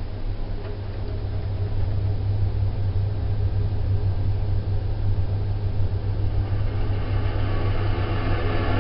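Vaillant boiler running with a strange steady low hum, a rushing noise building over it and getting louder from about two-thirds of the way in. The owner cannot pin the noise on any one part, but it goes away when the boiler's air inlet is adjusted.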